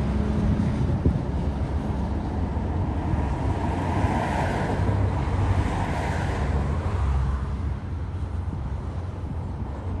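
Container freight train rolling past: the diesel locomotive's engine hum fades about a second in, leaving a steady low rumble of the wagons running over the rails.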